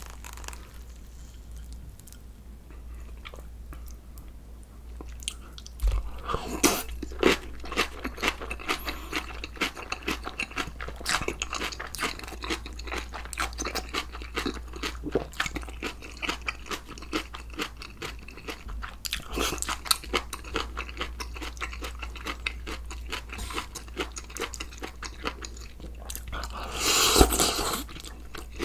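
Close-miked chewing and crunching of crisp vegetables, quiet for the first few seconds, then steady crunching from about six seconds in, with one louder burst near the end.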